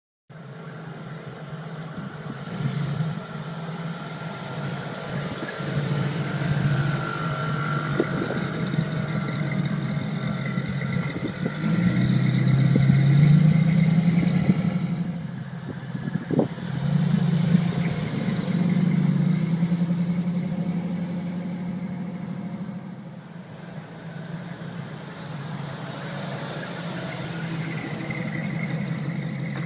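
1949 Chevrolet truck engine running, rising in pitch and loudness twice about halfway through as it is revved or pulls harder, then settling back to a steadier run.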